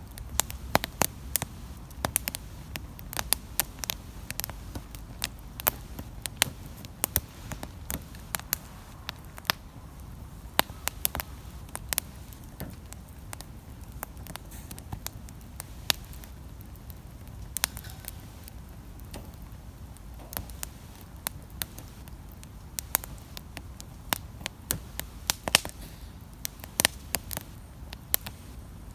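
Wood campfire crackling, with frequent irregular sharp snaps and pops over a low steady rumble.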